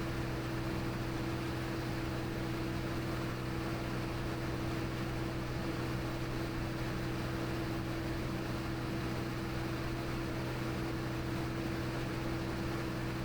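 Cirrus SR22T's turbocharged six-cylinder engine and propeller heard from the cabin in flight: a steady, even drone with a constant low hum over a rush of air noise.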